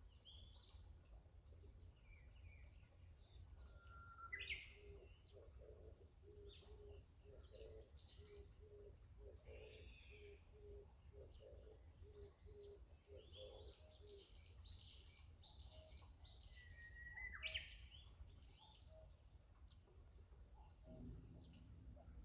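Faint birdsong: several birds chirping and calling, with a louder rising whistled call about four seconds in and again around seventeen seconds. A low note repeats about twice a second through the middle, over a steady low hum.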